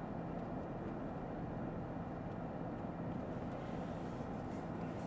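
Steady in-cabin drive noise of a Lexus ES 350 sedan under way: an even rumble of tyres on the road with a low engine hum underneath.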